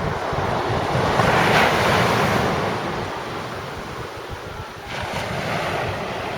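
Sea waves breaking and washing up the beach: one surge swells and fades over the first few seconds, and another comes about five seconds in. Wind buffets the microphone with a low rumble throughout.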